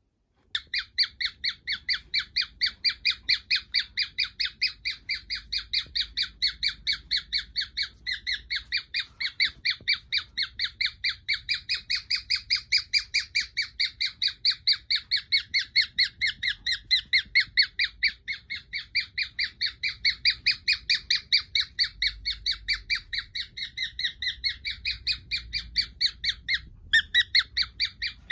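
Cockatiel giving a rapid, unbroken run of short squawking calls, about four a second, with a brief pause near the end.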